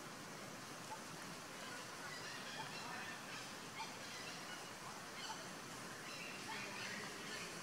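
Short bird calls repeating now and then over a steady outdoor background noise.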